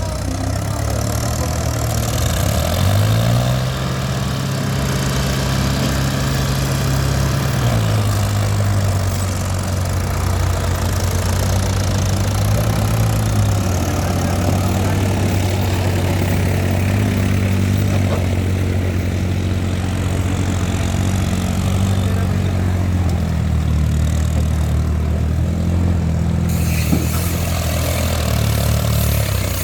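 New Holland 3630 tractor's diesel engine running, revved up about three seconds in and held there for a few seconds before settling back, then rising and falling slightly several more times.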